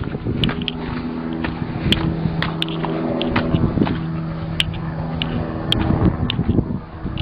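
An engine running steadily at one pitch, with scattered sharp clicks and knocks over it.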